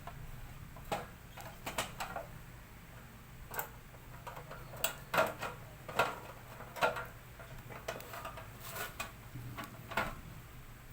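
Irregular light clicks and knocks of a laminator's plastic and metal parts being handled during repair, over a faint low steady hum.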